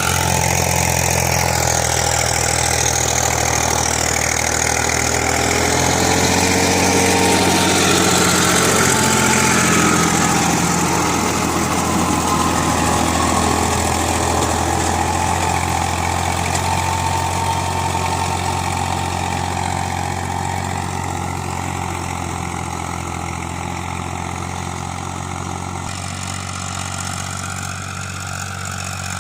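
Eicher tractor's diesel engine running steadily at idle, a continuous low throb, with a wavering higher whine over it during the first ten seconds.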